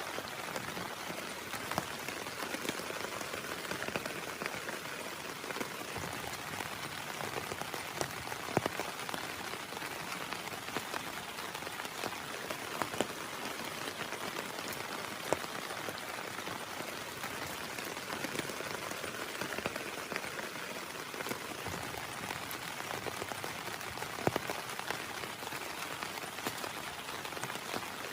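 Heavy rain falling steadily, a dense patter with scattered sharper drop hits.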